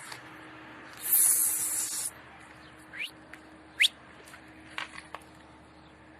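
A loud, high hiss lasting about a second, starting about a second in, then several short, sharply rising bird chirps over a faint steady hum.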